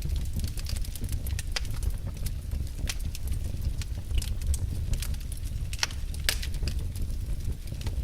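Wood fire burning in a fireplace: a steady low rumble of the flames with irregular crackles and pops, a few sharper ones about six seconds in.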